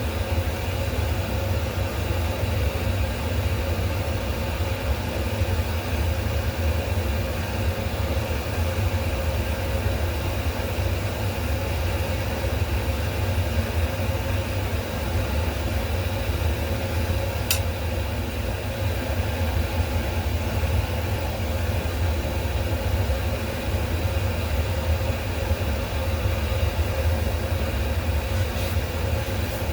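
A machine's steady low hum running without change, with one short sharp click about halfway through.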